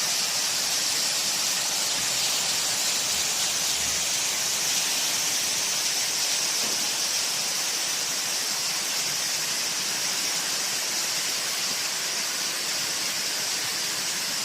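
Steady rush of a waterfall's falling water: an even hiss that holds at the same level throughout.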